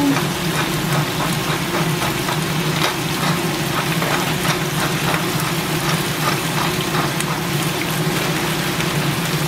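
Bok choy sizzling in a hot wok: a steady crackling hiss over a steady low hum.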